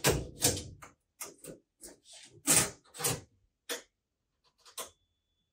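Handling noise: a string of short clacks and scrapes, about a dozen over five seconds, growing sparser toward the end.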